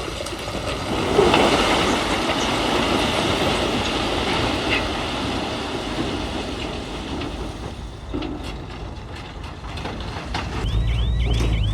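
Bulldozer at work: steel crawler tracks clanking and grinding over rock. Near the end the diesel engine's low rumble rises and a high squeal repeats about three times a second.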